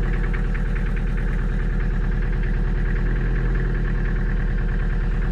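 Toyota Hiace van engine idling steadily just after being started following an engine decarbonising treatment.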